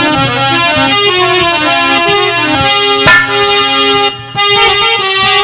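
Instrumental interlude of a devotional ghazal: a harmonium plays a stepping melody of held notes, with a short break about four seconds in.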